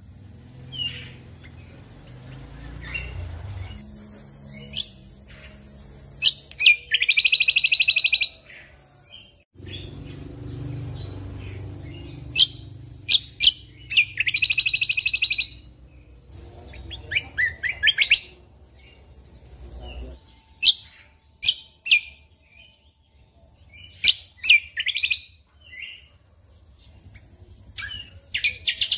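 Cucak kombo (kecial kombok) singing in its "tembakan" style: sharp, high single notes mixed with fast, buzzy rattling phrases, repeated several times with short pauses. A low hum runs under the first two-thirds and stops about twenty seconds in.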